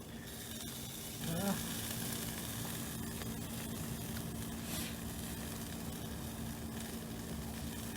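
Food sizzling as it cooks over a fire, growing louder about a second in and then holding steady.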